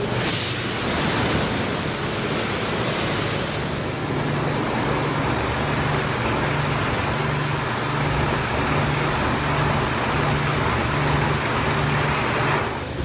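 Aquarama Stargate S9 gantry car wash running: a steady rush of spraying water and machinery, with a low hum that pulses on and off about once every three-quarters of a second from a few seconds in, stopping near the end.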